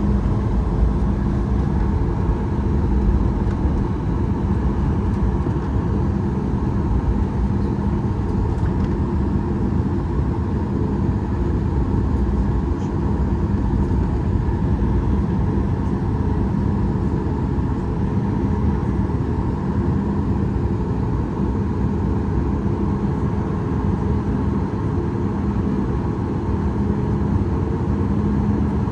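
Boeing 737 MAX 8 airliner with its CFM LEAP-1B engines running, a constant rumble with a steady low hum that holds an even level, not yet rising to takeoff power.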